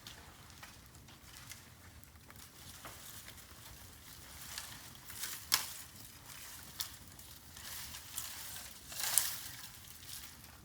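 Bamboo burning in an open bonfire, crackling with scattered sharp pops. The loudest pops come a little past the middle and near the end, the later one with a brief rush of noise.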